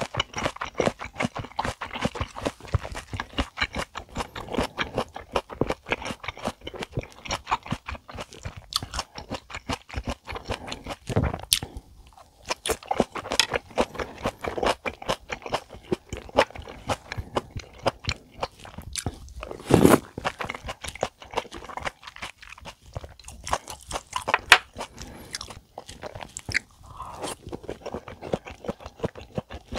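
Close-miked chewing of a mouthful of stir-fried taro stems: a dense, continuous run of quick mouth clicks, with one louder sound about twenty seconds in.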